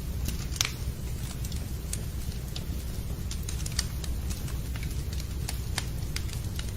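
Wood fire crackling in a fireplace: irregular sharp pops and snaps over a steady low rumble of burning, with a couple of louder pops.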